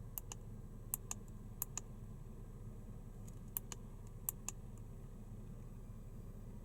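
About ten light, sharp clicks, mostly in close pairs, scattered over a low steady hum.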